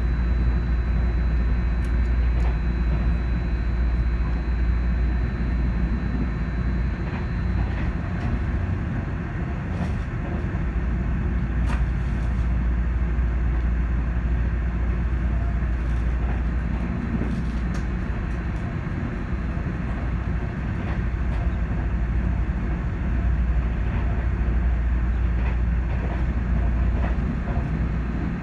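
Steady low rumble of a Taiwan Railways passenger train heard from inside the carriage while it runs, with a few faint clicks and a thin high whine during the first several seconds.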